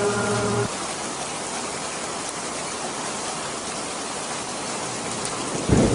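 Steady rain falling, with a low rumble of thunder starting near the end. At the very start a chanting voice holds its final note and stops.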